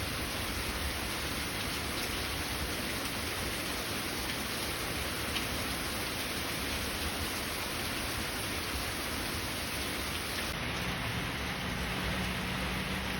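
Steady rain falling and pattering on surfaces, an even hiss with no distinct thunderclap.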